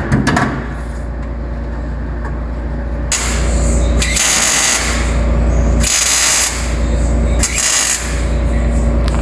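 MIG welder laying short stitch welds on sheet metal: four bursts of crackling hiss, each about a second long with brief pauses, starting about three seconds in, over a steady shop hum.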